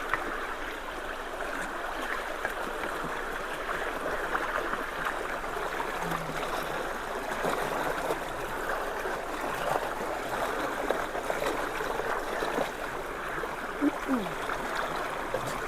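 Steady rush of storm water pouring through a partly blocked road culvert, its flow choked by a water-filled bucket and debris lodged in the opening.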